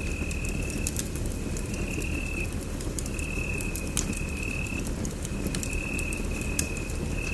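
Wood fire burning in a fireplace: a low rumble of flames with scattered sharp crackles and pops. A thin, high steady tone comes and goes every second or so through it.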